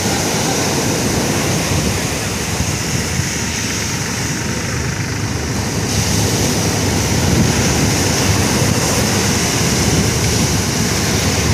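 Steady roar of wind buffeting the microphone and rough sea waves washing around a small boat.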